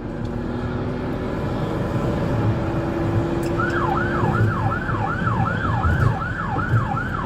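Police car siren switching on about halfway through in a fast yelp, about three falling sweeps a second, over the steady engine and road noise of a cruiser in pursuit.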